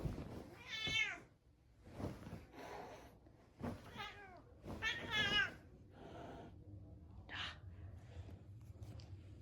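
A 16-year-old house cat meowing, three clear calls that each fall in pitch about a second in and around four and five seconds in, then a fainter short one near the end.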